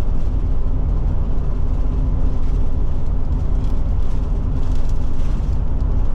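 Forest River Forester motorhome driving at road speed: a steady drone of engine and tyre rumble heard from the cab.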